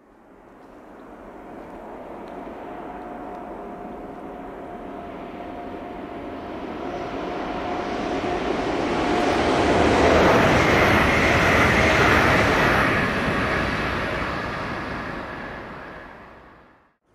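Electric double-deck passenger multiple unit passing at speed on a double-track main line. Its rolling wheel-on-rail noise and a steady tone build up, peak about ten seconds in, then die away.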